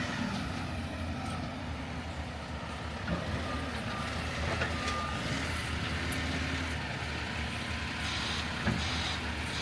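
Garbage truck engine running steadily, with a few short knocks and a brief high beep near the middle.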